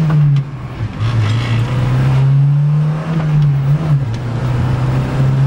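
Porsche engine heard from inside the cabin, accelerating through the gears. Its note climbs, then drops at a gear change about half a second in and again about four seconds in.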